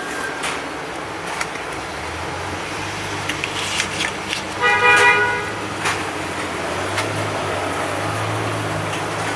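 Street traffic with a low steady rumble of passing vehicles, and a car horn honking once, briefly, about halfway through.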